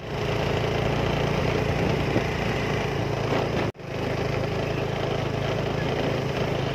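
Small engine of a two-wheeler running steadily while riding, heard from on the vehicle with wind and road noise over it. The sound cuts out for an instant a little over halfway through.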